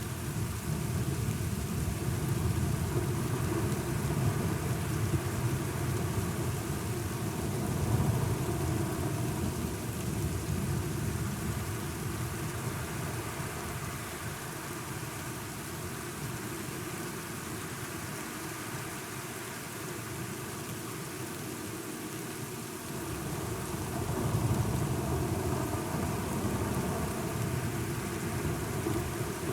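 Steady rain, with low rolling thunder that rumbles through the first dozen seconds, fades away, and builds again near the end.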